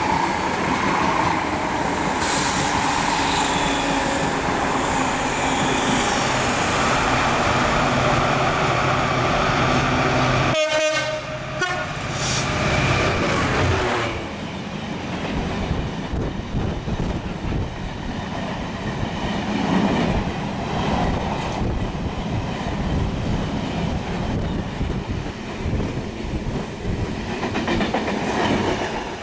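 A diesel-hauled freight train of hopper wagons passing close by: the locomotive's loud rushing run-past in the first half, then the wagons rolling by with uneven clattering of wheels over the rail joints.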